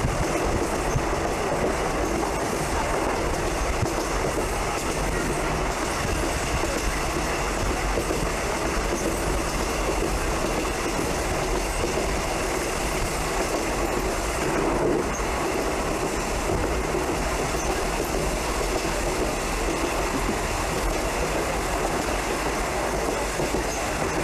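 Passenger train running along the track: steady noise of wheels on rails.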